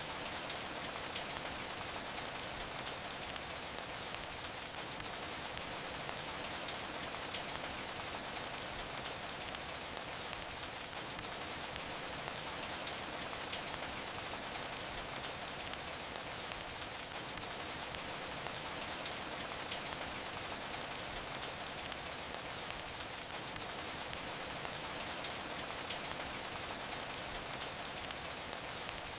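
Steady rain falling, with the small, frequent crackles of a wood fire over it and a louder pop about every six seconds.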